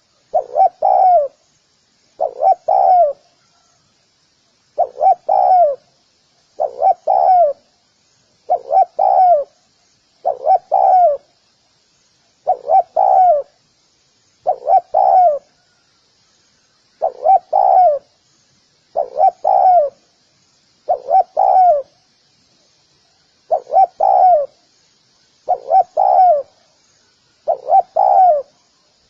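Spotted dove cooing: short two- or three-note phrases repeated about every two seconds, with a few longer pauses between them. Faint high chirping runs underneath.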